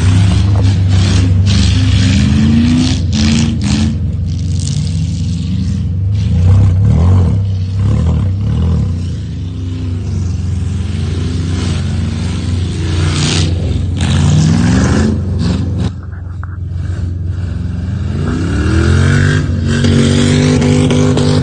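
2003 GMC Sierra's 4.8-litre V8 through a straight-piped exhaust, revving up and down hard as the truck drifts, over a noise of sliding tires. The revs drop sharply about sixteen seconds in and climb again near the end.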